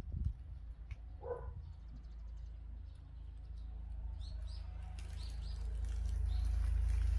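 Small birds chirping several short high calls, over a low rumble that builds up toward the end.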